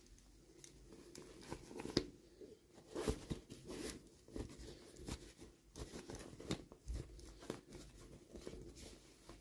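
Toy packaging being handled and opened by hand: irregular crinkling, tearing and small clicks, loudest about two and three seconds in.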